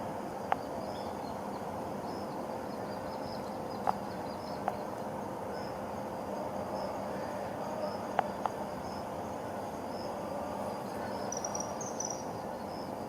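Insects chirping in small high repeated notes over a steady outdoor hum, with five sharp clicks scattered through, two of them close together near the two-thirds mark.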